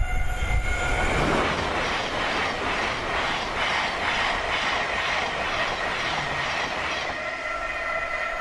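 Thameslink Class 700 electric multiple unit passing close at speed: a rush of wheel and air noise with a regular clatter as each set of wheels goes by. It dies away about seven seconds in.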